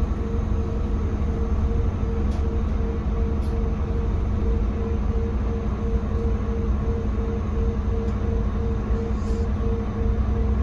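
Inside the cabin of a Scania K320CB bus: the rear-mounted Scania DC9 five-cylinder diesel and drivetrain running with a steady low rumble and an evenly pulsing whine, with a few faint ticks.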